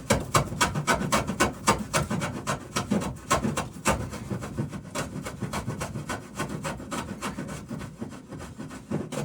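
Hand tool working the bevel on a wooden boat plank in fast, repeated rubbing strokes, about five a second, taking the edge down where the saw wandered off the line.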